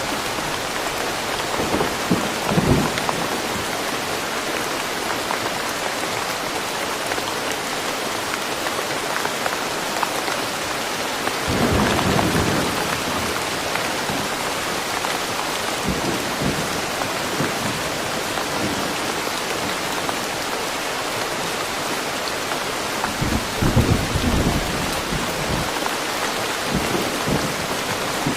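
Steady rain falling in woodland, an even hiss of drops throughout. Low rumbles of thunder swell three times: about 2 seconds in, around the middle, and near the end.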